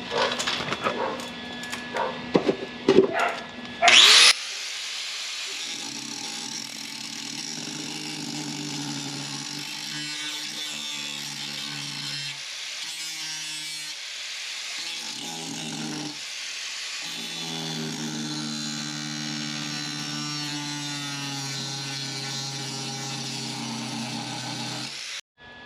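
Grinder working on the steel bulkhead of a classic Range Rover. There are a few clicks and knocks first, then the motor spins up with a rising whine about four seconds in. It then runs steadily under load with a grating hiss, dropping out briefly a few times, and stops abruptly near the end.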